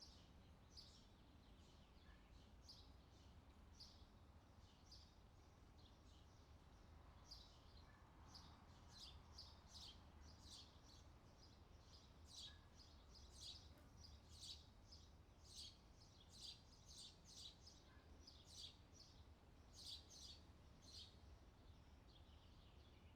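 Faint birdsong: short, high chirps repeated every second or so, coming thicker and faster about a third of the way in, over a low, steady background noise.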